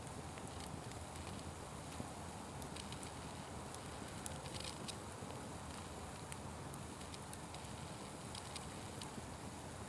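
Fire crackling: a steady soft rush with scattered small pops.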